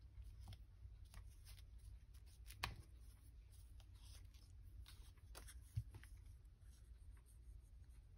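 Faint rustling and light clicks of paper and fabric being handled and set down at a craft table, with two sharper taps about two and a half and nearly six seconds in, over a low steady room hum.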